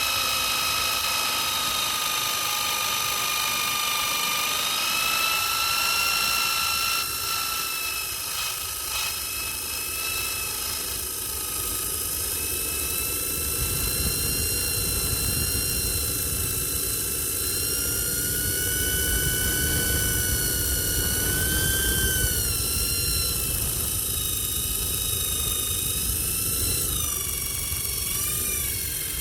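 Electric power tool running with a steady high whine, its pitch sagging and wobbling briefly several times near the end; a rough low rumble joins from about halfway through.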